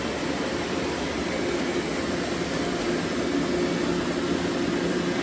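Robot vacuums running: a steady whirring hum of suction motors and brushes.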